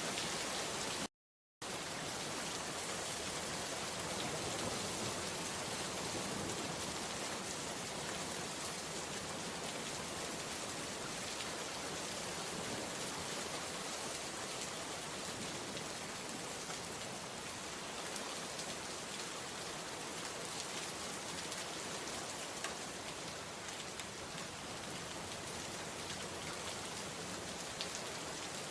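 Steady rain falling, a dense even hiss with fine scattered drop ticks. It cuts out completely for about half a second about a second in, then carries on unchanged.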